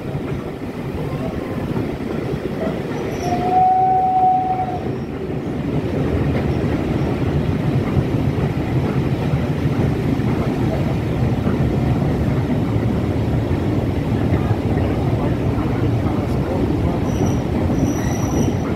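Steam-hauled passenger train behind a 4F 0-6-0 running along the line: a steady rumble and rattle of wheels on rail that grows louder after about six seconds. About three seconds in a single steady tone sounds for about a second and a half, and near the end thin high squeals come in.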